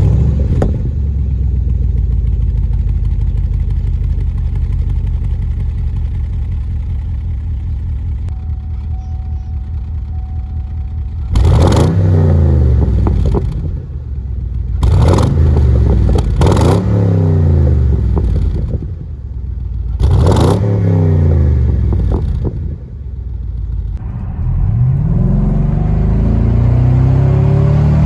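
2015 Chevrolet Camaro SS 6.2-litre V8 exhaust, fitted with Flo Pro Max mufflers and resonator deletes, catching with a loud flare and settling into a steady idle. About halfway through it is blipped four times in quick rises and falls, then held in a longer climbing rev near the end.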